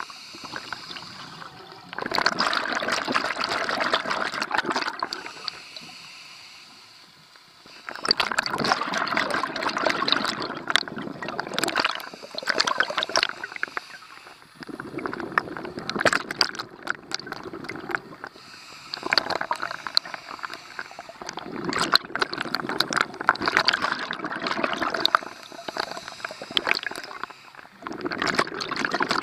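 Scuba breathing underwater: bursts of crackling, bubbling exhaust from the regulator on each exhale, with quieter gaps between breaths.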